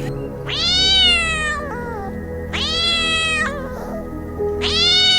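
Three long, high animal calls, each rising and then falling in pitch, over background music with steady held notes.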